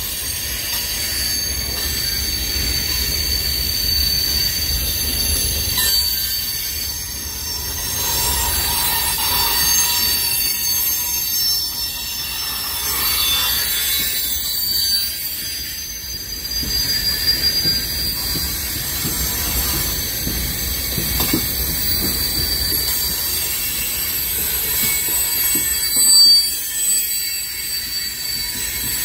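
Freight cars of a long mixed freight train rolling past, a steady rumble of steel wheels on rail with a thin, high, steady squeal from the wheels above it.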